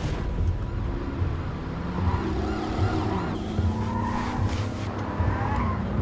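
Car engine revving hard as it speeds up, with tyres squealing for a few seconds in the middle.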